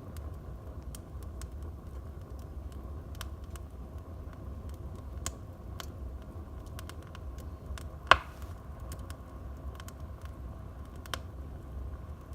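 Wood fire in a fireplace crackling, with scattered small snaps over a low steady rumble and one loud pop about eight seconds in.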